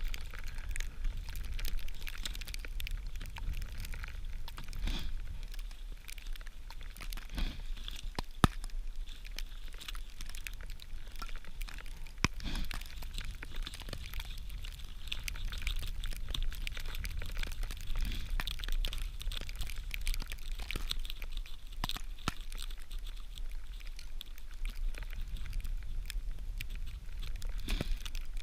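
Dry tinder being crumpled and torn apart by hand into fine particles to catch a spark: a steady crinkling and crunching with a few sharp cracks.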